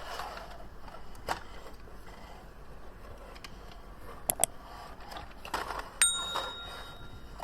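Unboxing handling sounds: soft rustling and a few sharp clicks. About six seconds in, something is struck and gives a small metallic bell-like ring with several high tones that rings on for over a second.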